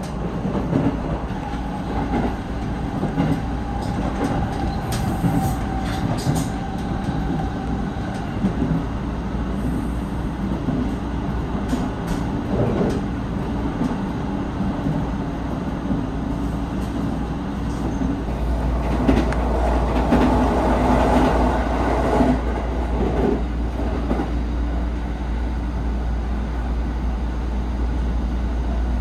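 Cabin noise of an electric local train running at speed: a continuous rumble of wheels on track, growing louder for a few seconds about twenty seconds in.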